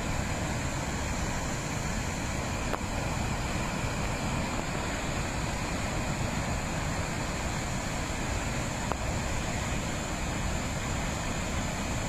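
Heavy rain falling: a steady, even rushing hiss with a few faint ticks.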